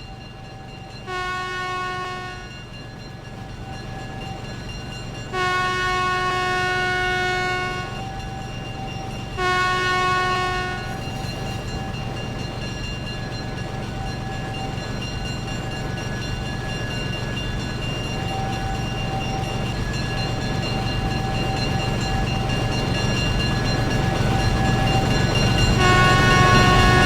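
Diesel locomotive of an approaching passenger train sounding its horn three times, short, long, short, within the first eleven seconds, while the engine rumble grows steadily louder as the train nears; the horn sounds again near the end.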